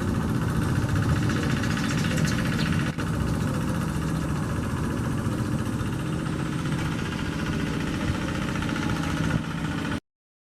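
Tractor engine running steadily, with a brief break just before three seconds in. It cuts off to silence about ten seconds in.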